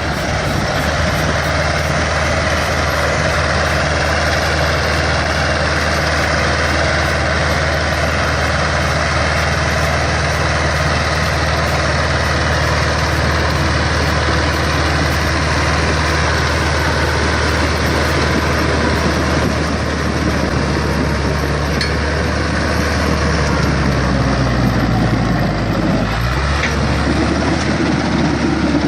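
Heavy truck engine running steadily with a deep, even hum; the low note shifts about three seconds before the end.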